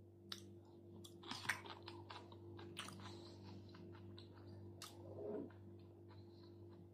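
Faint close-miked chewing of chuka seaweed and salmon salad: soft, irregular wet clicks and small crunches, over a steady low electrical hum. A brief low sound comes about five seconds in.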